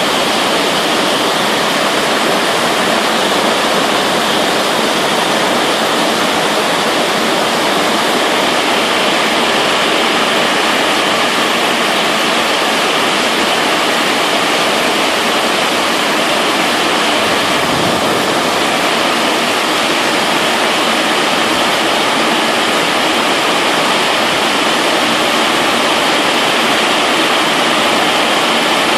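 Heavy rain pouring down in a steady, loud hiss, with a brief low rumble a little past halfway.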